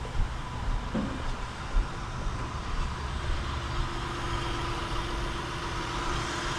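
A 2003 Acura TL's 3.2 L V6 idling steadily with its cylinder 6 misfire just repaired, with a couple of brief knocks in the first two seconds.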